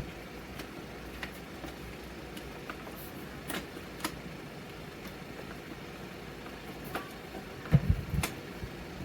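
Scattered light clicks and taps over a steady low hiss, with a few louder knocks near the end.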